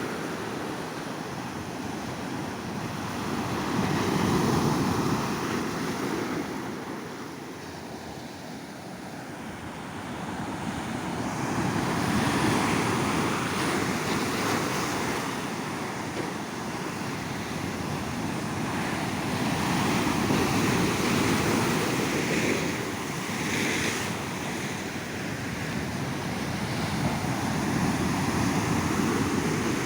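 Ocean surf breaking and washing up a beach, the wave noise swelling and easing about every eight seconds.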